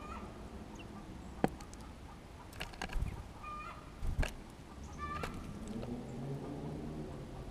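Small songbirds at a feeder: sharp taps and pecks on the feeder and a few short chirps. From about five and a half seconds in, a lower, wavering, drawn-out sound joins them.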